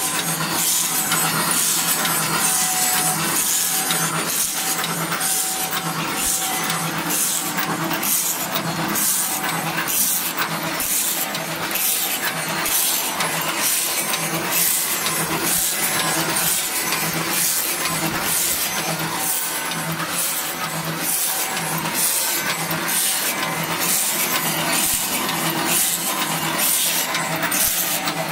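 Wooden chopstick forming and sharpening machine running: a steady motor hum with a regular high-pitched cutting stroke repeating about one and a half times a second.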